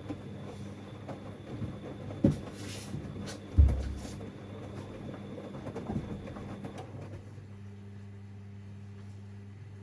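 Siemens Extraklasse XLs 140 A washing machine tumbling a wash load: irregular thuds and knocks of laundry dropping in the drum, one heavy thump a few seconds in, over a steady hum and a faint motor whine. The drum stops about seven seconds in, leaving only the hum.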